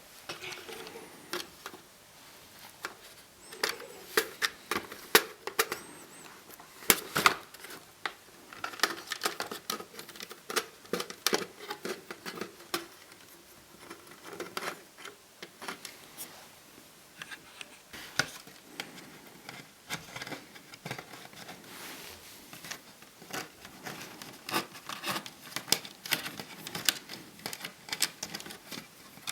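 Irregular small clicks, taps and scraping rustles of hands working inside an Acer Aspire 5732ZG laptop's plastic chassis, pulling the Wi-Fi antenna wires out of their routing channels. Some clicks come in quick runs, the loudest around the middle.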